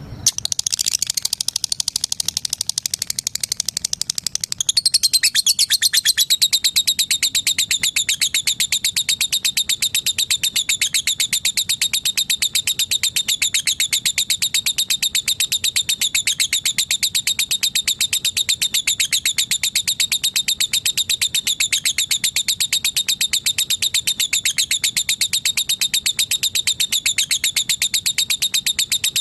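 A female lovebird's long unbroken 'ngekek' trill: very rapid, high-pitched chattering notes repeated without a pause. It becomes steadier and a little louder about five seconds in.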